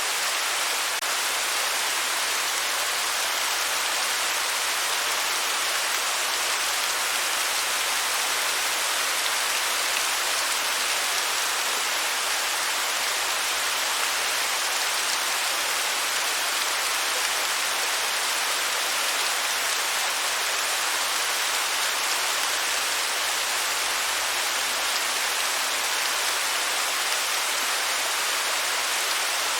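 Waterfall: a steady, even rush of falling and splashing water, unchanging throughout.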